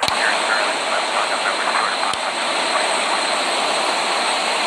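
Steady jet noise from a Boeing 787 airliner's engines, cutting in abruptly with a click at the very start; a faint tick about two seconds in.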